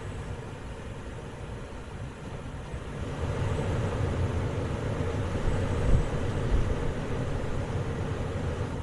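A motor vehicle running with a steady low rumble, which grows louder about three seconds in.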